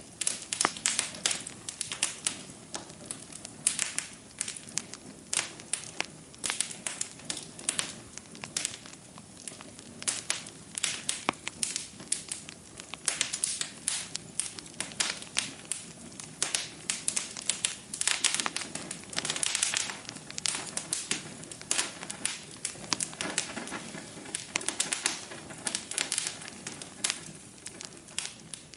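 Wood fire crackling steadily in a fireplace: a dense run of irregular sharp pops and snaps over a soft hiss of flames.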